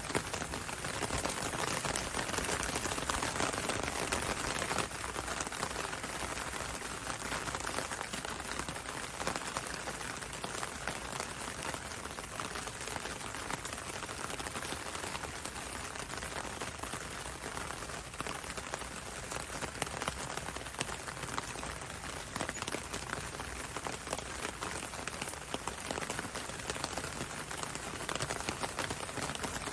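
Steady gentle rain falling on a window and a road, an even hiss dotted with many sharp ticks of single drops.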